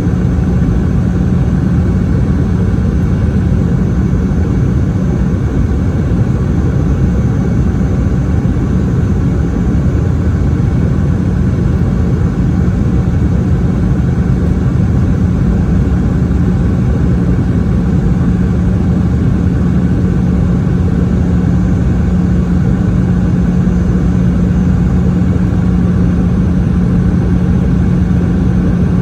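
Steady cabin noise of a Boeing 717 in flight: the tail-mounted Rolls-Royce BR715 turbofans and the airflow make an even roar with a steady low hum, heard inside the cabin from a rear window seat close to the engines.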